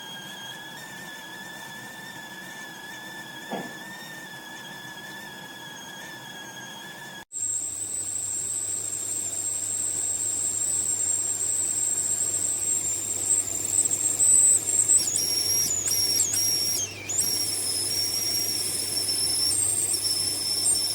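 Stainless-steel stovetop kettle whistling at the boil: a steady mid-pitched whistle that breaks off about seven seconds in. It comes back as a louder, much higher shrill whistle that wavers and jumps between pitches in its last several seconds.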